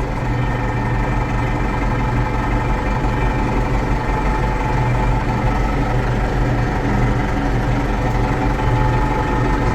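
AgKing tractor's engine running steadily, an even low drone with no change in speed.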